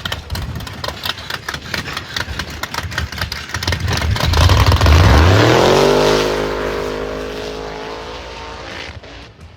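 Drag race car launching: a rapid crackle of popping pulses, then the engine's pitch climbs steeply as it accelerates away, loudest about five seconds in, and the sound fades as it pulls away down the strip.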